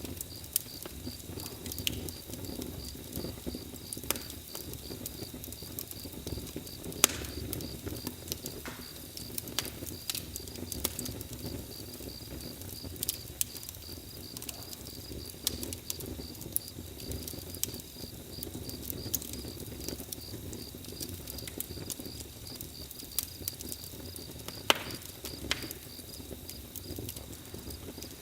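Bonfire crackling, with irregular sharp pops of varying loudness over a low, soft rumble of burning. A steady high insect chirping, like a cricket, runs underneath.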